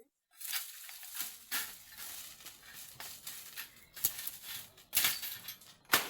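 An irregular run of sharp cracks and crunches, with three louder snaps about four, five and six seconds in.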